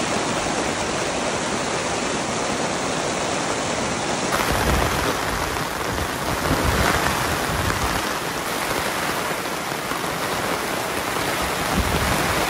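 Torrential rain pouring down onto tent and tarp fabric overhead: a loud, steady hiss. It changes abruptly about four and eight seconds in as the shots change.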